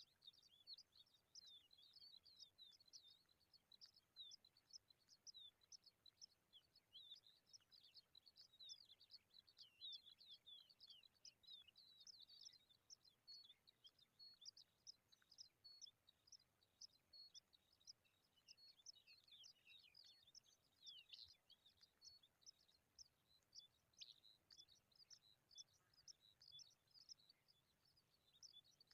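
Faint, high-pitched chirping of baby pipits: a quick, unbroken run of short notes, several a second.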